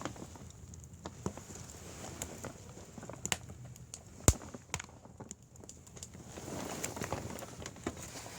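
Wood fire crackling: irregular pops and snaps over a low rush of burning, with one sharp, loud pop about four seconds in and a brief swell of hissing a few seconds later.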